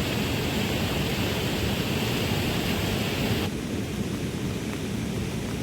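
Heavy rain falling steadily over a deep low rumble. About three and a half seconds in, the higher hiss of the rain drops away suddenly, leaving the rumble and a softer patter.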